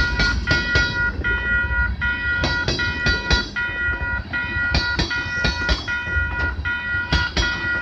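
Freight train's cars rolling past a level crossing, a low rumble with wheels clicking over rail joints. A crossing signal bell rings steadily and rapidly over it.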